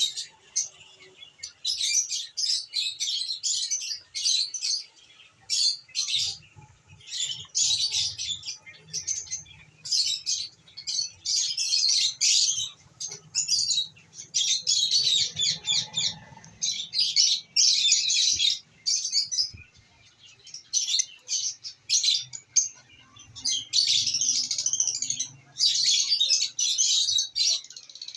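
Lovebirds chattering: rapid, high-pitched chirps in dense bursts, one bout after another with short pauses between.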